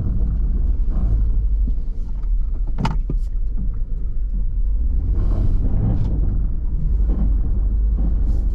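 Ford Taurus engine running with a steady low rumble, and a single sharp knock about three seconds in.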